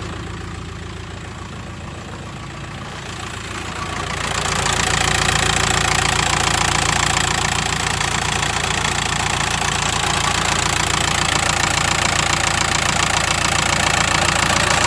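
VW Transporter T5 1.9 TDI four-cylinder diesel engine idling with a rattle the owner cannot identify. It becomes louder and brighter about four seconds in.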